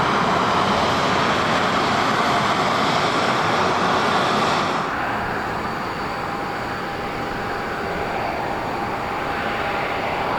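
The CFM56 jet engines of a Boeing 737-500 run at high power with a loud, steady roar. About five seconds in, the high hiss drops away abruptly, leaving a duller roar with a faint steady whine.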